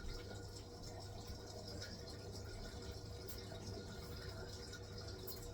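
Hisense washing machine running its wool cycle: water sounds from the drum over a steady low machine hum.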